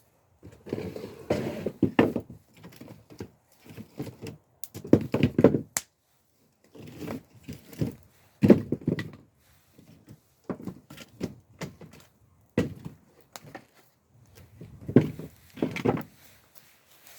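Irregular knocks, clunks and rustles of things being handled, in clusters of a second or so with short pauses between, and a few sharp clicks.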